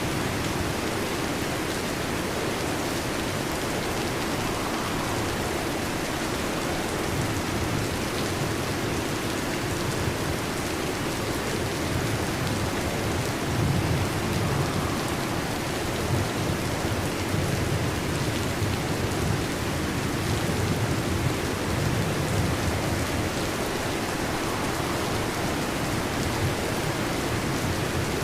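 Steady heavy rain, with low rolls of distant thunder rumbling through the middle.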